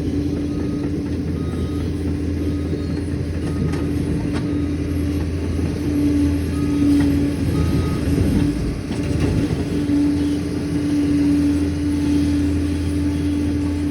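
Liebherr PR 746 crawler dozer's diesel engine running steadily under work, with a constant low drone and a steady whine over it.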